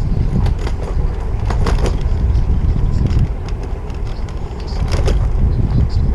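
Steady low rumble of wind buffeting the camera microphone on a moving bicycle, mixed with city street traffic, and a few sharp clicks or rattles in the first two seconds and again about five seconds in.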